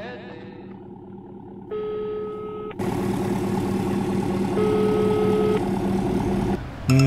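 Film score fading out, then a car engine running steadily from about three seconds in, under long held music notes.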